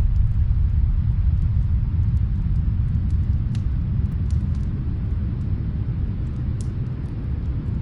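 Steady low rumble of snowstorm wind, with a few faint, scattered pops of a wood fire crackling in another room.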